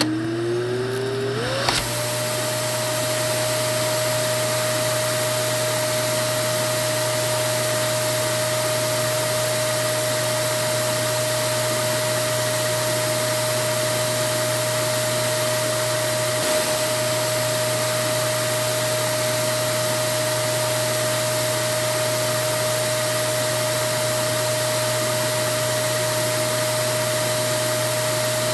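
Vacuum cleaner motor spinning up with a rising whine over the first two seconds, then running steadily with an even whine over a rush of air.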